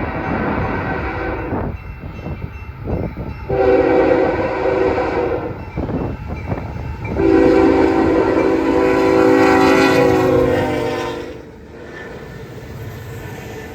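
Union Pacific freight locomotive's air horn sounding a blast of about a second and a half, then, after a short broken stretch, a longer blast of about four seconds. Under it run the rumble of the train and wind on the microphone.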